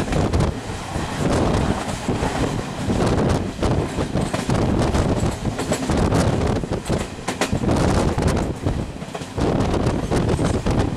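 Passenger train running, heard from on board at an open window: wheels rumbling on the rails with irregular clicks over rail joints, and wind buffeting the microphone.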